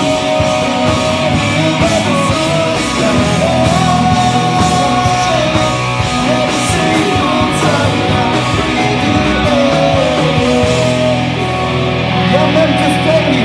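Live pop-punk band playing: distorted electric guitars and drums with a singer's voice over them.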